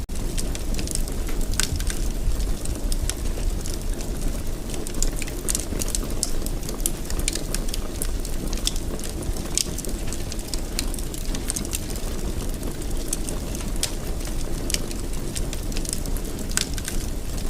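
Wood fire burning steadily in a fireplace: a low rumble of flames with frequent sharp crackles and pops scattered throughout.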